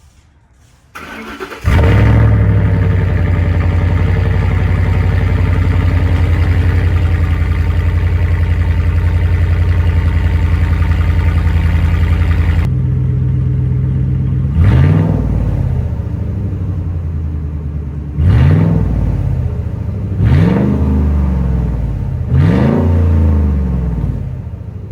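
Straight-piped 6.2-litre V8 of a 2013 Ford F-150 Raptor, resonator and muffler deleted, catching on a cold start and running at a steady fast idle. About halfway through it settles to a lower idle and is revved four times, each rev rising and falling back.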